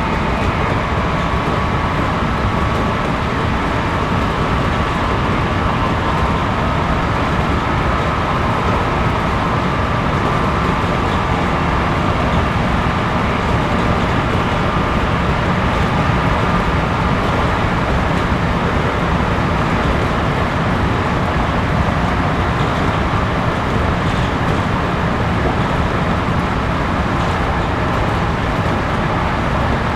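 Cabin running noise of a JR Series 211-5000 electric multiple unit at steady speed: an even rumble of wheels on rail and track noise, with a faint steady whine.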